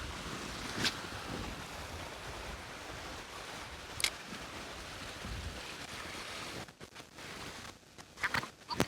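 Wind on the microphone over the sound of the sea and surf, with two sharp clicks. Near the end the wind drops and a quick series of short, sharp sounds begins.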